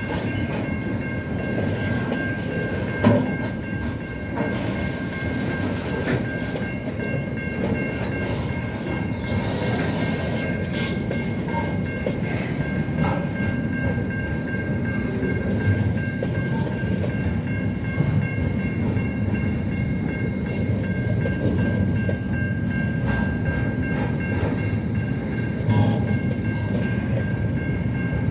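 Train running on the rails: a steady rumble with a steady high-pitched whine over it and scattered clicks. There is a sharp knock about three seconds in and a brief hiss about ten seconds in.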